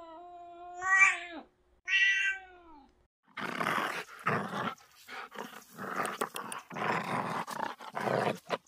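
Domestic cat meowing: a long meow that rises in pitch at its end, then a shorter one. From about three seconds in, a run of rough, growl-like bursts follows, uneven and a few per second.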